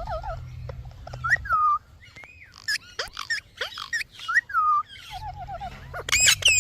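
Pet parrot whistling and chirping: short rising and falling whistles, a quick warbling run of repeated notes near the end, and sharp clicks in between.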